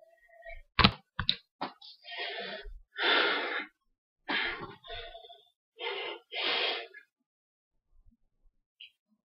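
A few sharp knocks, then four loud, breathy exhalations close to the microphone, each under a second long.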